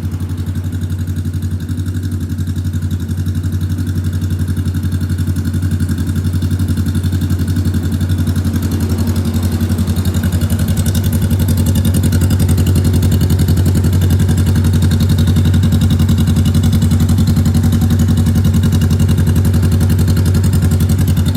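Honda Rebel 500's 471cc parallel-twin engine idling steadily through a custom exhaust, getting a little louder over the first half and then holding even.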